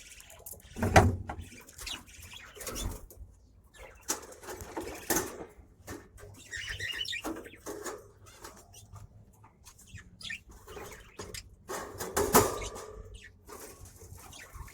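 Small caged pet parrots chirping now and then, with wing flapping and several knocks and rustles in the cage.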